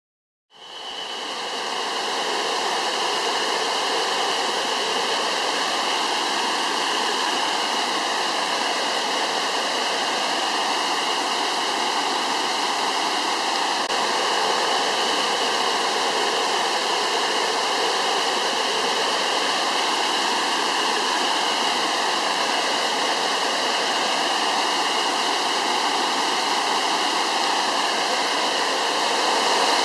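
Waterfall rushing: a steady wash of falling water that fades in over the first second or two.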